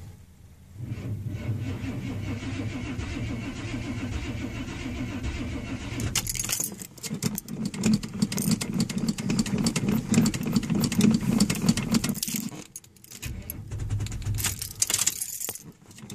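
Chevy engine on a cold start: the starter cranks it for several seconds, and about six seconds in it catches and runs louder while the accelerator is pumped. About twelve seconds in the engine dies and is cranked again.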